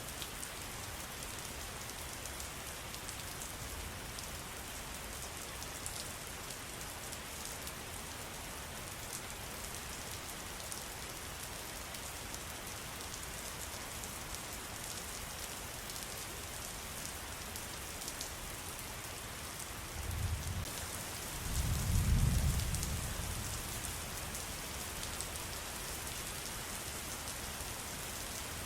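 Steady pattering water with scattered sharp drip ticks. A low rumble swells about twenty seconds in and fades over a few seconds.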